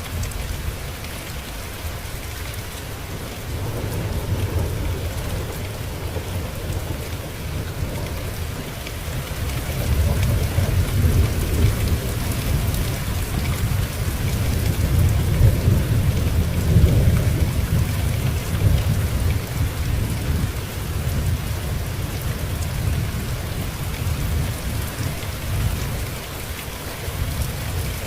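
Steady rain falling, with a long low rumble of thunder that swells about a third of the way in, peaks just past the middle and dies away.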